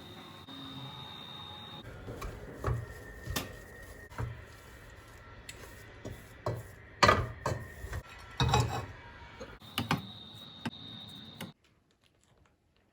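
Kitchen work sounds: scattered knocks and clinks of utensils and dishes against a counter, stopping abruptly near the end.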